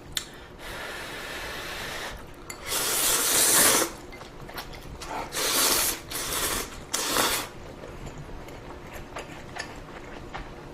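Ramen noodles being slurped in several hissing bursts: a softer one at the start, a loud long one about three seconds in, then three shorter ones around six to seven seconds in.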